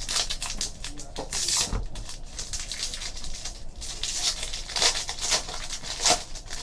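Trading cards being handled: a run of quick clicks, flicks and rustles as cards slide against one another, busier about a second in and again near the end.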